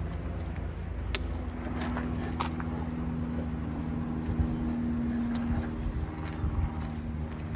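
A steady low engine-like hum with a held tone that swells in the middle, and a few scattered clicks.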